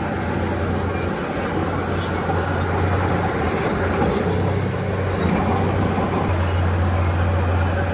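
Komatsu D31P bulldozer's diesel engine running steadily under work, with scattered short high squeaks and clinks from its steel tracks.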